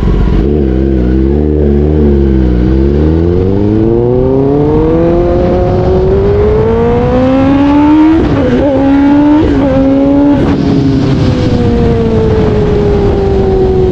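Kawasaki ZX-10R inline-four sportbike engine pulling away and accelerating: the pitch wavers low for the first few seconds, climbs steadily, breaks briefly twice around the middle, then falls slowly as the bike eases off.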